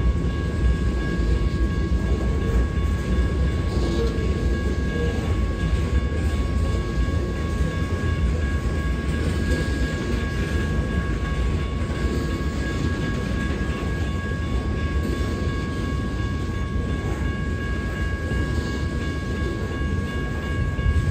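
Freight train of covered hopper cars rolling past, a steady rumble of wheels on rail. A steady high ringing tone sounds over it throughout.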